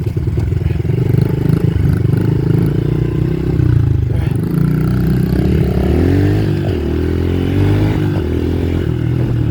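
Small dirt bike engine running steadily, then revving up and easing off about five to seven seconds in.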